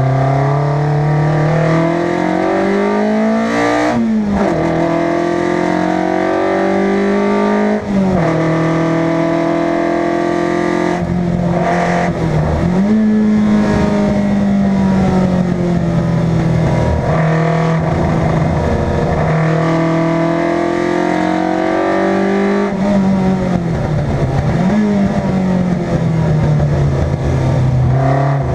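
Competition car's engine driven hard through the gears. Its pitch climbs under acceleration and drops sharply at each gear change, five times.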